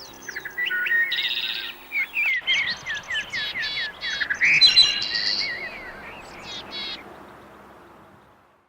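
Several songbirds singing at once: a busy chorus of chirps, trills and whistled notes that thins out and fades away near the end. The last of a music track dies away in the first couple of seconds.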